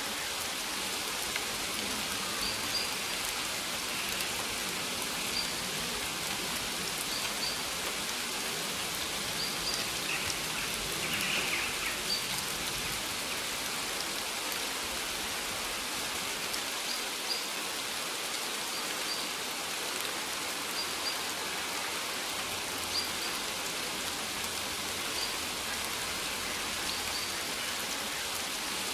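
Steady rain falling on a maize field, an even hiss of drops on the leaves. Faint short high chirps recur about once a second over it.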